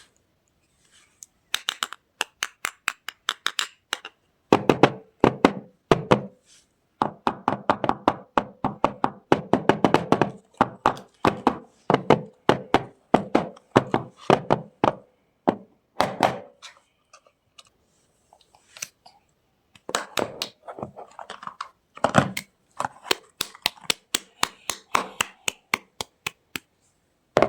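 Dry soap cracking under handling: rapid crisp cracks and knocks, several a second, in bursts with short pauses.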